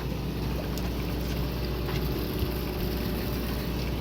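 Steady low drone of a fishing boat's engine running, even and unbroken.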